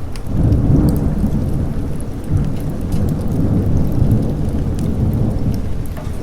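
Rolling thunder rumbling low over steady rain: the rumble swells just after the start, surges again a couple of seconds in, then eases off near the end. Faint crackles from a fire tick now and then.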